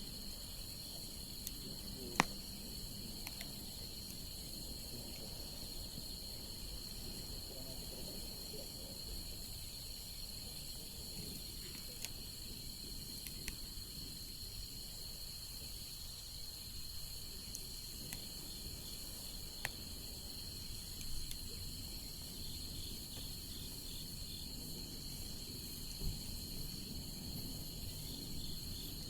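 Wood bonfire burning with a low hiss and a few scattered sharp pops, the loudest about two seconds in, over a steady high-pitched insect trill.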